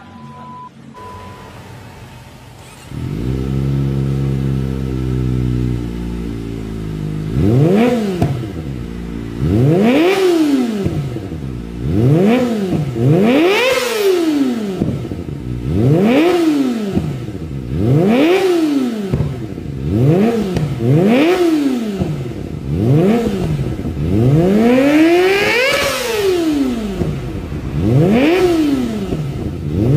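Kawasaki Ninja ZX250R motorcycle engine through an aftermarket exhaust, idling from about three seconds in, then blipped repeatedly, about one quick rev every two seconds, each climbing and dropping back in pitch.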